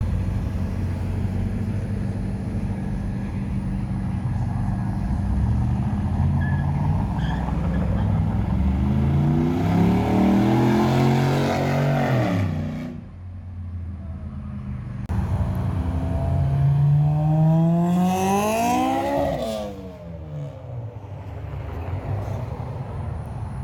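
Car engines rumbling and revving: the engine pitch climbs twice, the first run cutting off abruptly about thirteen seconds in, the second climbing higher and then falling away about six seconds later.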